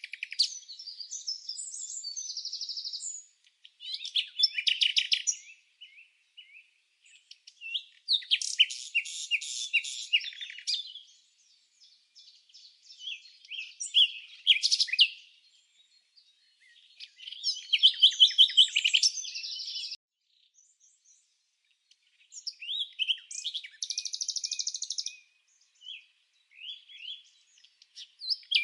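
Songbirds chirping: high-pitched phrases of rapid chirps and trills, each lasting one to three seconds, separated by short pauses.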